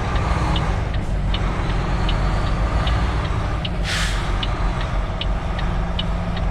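Semi truck's diesel engine running low and steady, heard from inside the cab, with an even high ticking about two to three times a second. About four seconds in comes one short, loud hiss of air from the air brakes.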